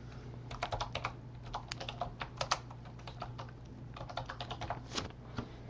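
Typing on a computer keyboard: quick runs of key clicks, thinning out briefly about halfway through, over a steady low hum.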